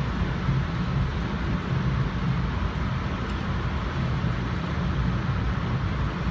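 Steady ride noise of a commuter rail coach in motion, heard from inside the car: a constant low rumble from the wheels and running gear with an even rush of noise above it.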